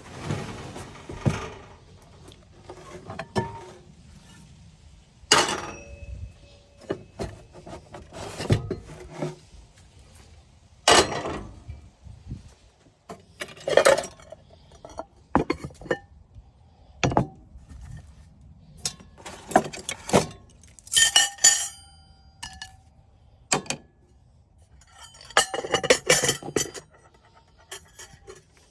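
Cookware and utensils being handled: a string of separate clinks and clanks, some ringing briefly.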